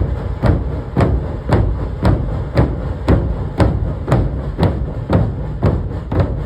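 Dhol-tasha ensemble playing: many large dhol drums beating under sharp tasha snare strikes, in a steady driving rhythm of about two accented strikes a second.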